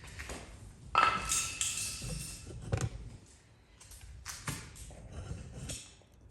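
Metal tools clinking and tapping, with a loud ringing metallic ping about a second in and several sharper taps after it.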